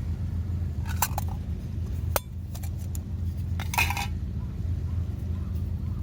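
A few light clinks of hard objects, at about a second in, at two seconds and a cluster near four seconds, over a steady low rumble of wind on the microphone.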